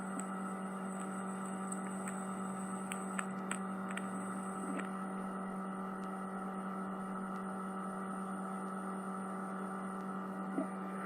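Steady electrical hum made of one low tone with several higher overtones and a faint high whine, broken by a few soft clicks.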